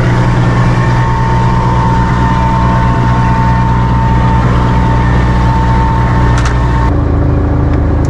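Motorboat engine running steadily, with a high whine over its low drone. About seven seconds in, the engine note changes and the whine stops.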